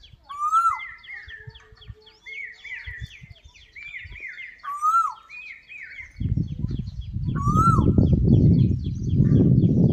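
Several birds calling together: a rising-and-falling whistle repeated every few seconds, over a fast ticking chatter and runs of short chirps. From about six seconds in, a loud low rumbling noise joins them.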